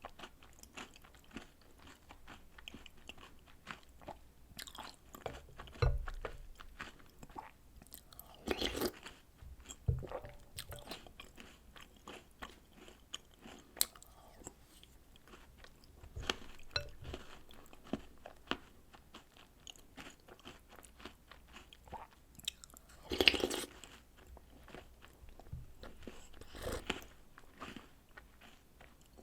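Close-miked eating of chocolate biscuits, chocolate snacks and cereal soaked in milk: irregular crunching and chewing with a steady run of small clicks. A louder burst of crunching comes about three quarters of the way through.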